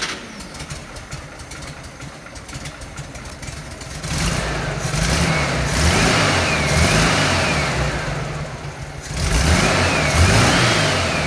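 Air-cooled 1600cc Volkswagen flat-four engine, fitted with a Weber 32/36 carburettor, running: it stays lower at first, then from about four seconds in it is revved up and down several times as the throttle is worked by hand at the carburettor.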